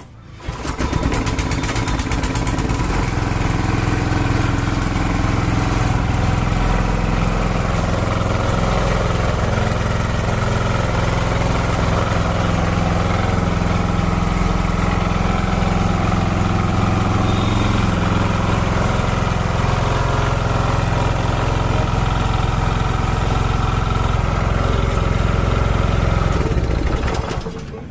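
Small petrol engine of a gasoline water pump catching within the first second, then running steadily.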